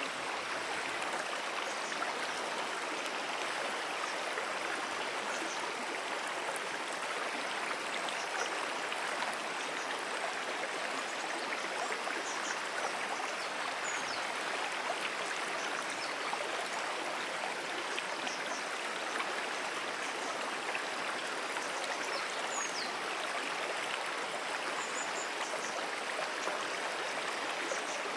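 Brook flowing: a steady, even rush of running water. A few faint, short high chirps come and go above it.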